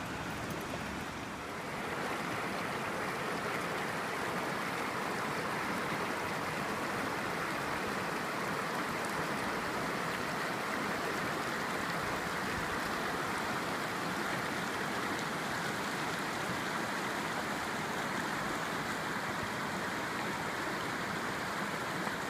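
River water flowing steadily, a continuous rushing of current over rocks; it grows a little louder about two seconds in.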